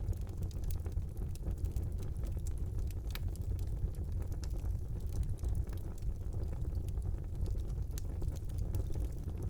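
Wood fire burning in a brick fireplace: a steady low rumble of the flames with frequent sharp crackles and pops from the burning logs.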